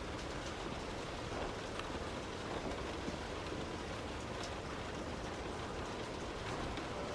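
Heavy rain on a moving car, heard as a steady hiss with wet-road tyre noise and scattered ticks of drops striking.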